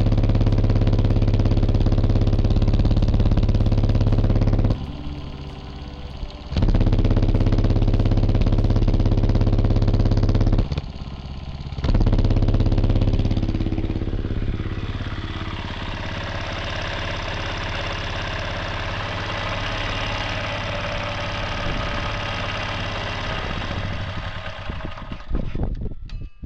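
Master (ULTIMOTOR) small air-cooled engine running steadily at a slow idle. The level drops briefly twice, and the engine is quieter in the second half before the sound cuts off at the end.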